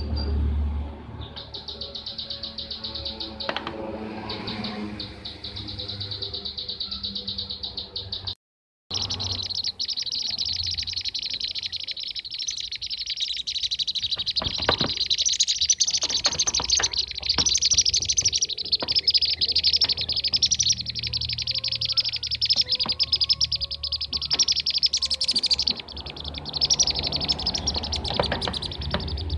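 Kirik-kirik (bee-eaters) calling, a dense, unbroken stream of rapid high chirps and trills as used for a bird-lure recording, with the sound cutting out for about half a second around eight seconds in.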